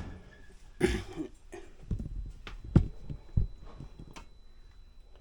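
A series of irregular knocks and thumps, about eight in five seconds, like handling noise.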